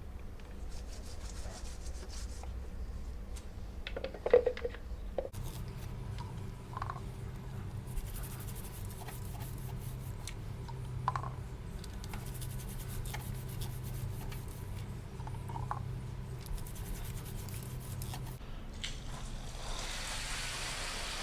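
Repeated rubbing and scraping strokes of hand scrubbing on a motorcycle chain as it is cleaned and oiled, in spells of a second or two, with a metallic clank about four seconds in. A steady hiss sets in near the end.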